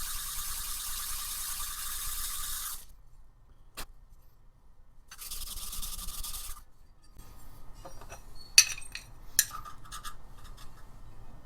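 Two long passes of abrasive rubbing on a metal surface, as it is sanded or filed flat by hand; the first lasts nearly three seconds and the second over a second. Then a run of light clinks and taps as the metal part is handled and set down.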